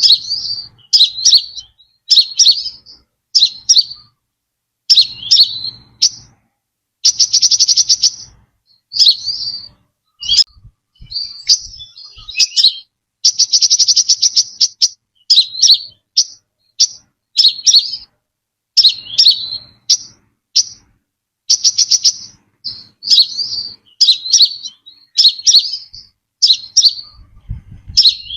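Brown-throated sunbird singing: short, high chirping phrases about once a second, a few of them stretched into a quick buzzy trill lasting about a second.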